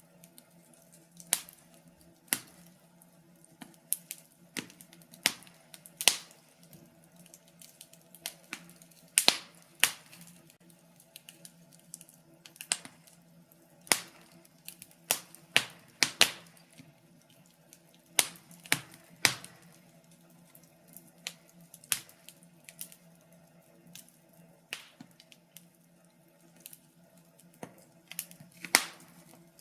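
Fire crackling in a fireplace: irregular sharp pops and snaps, one or two a second, some much louder than others, over a faint steady low hum.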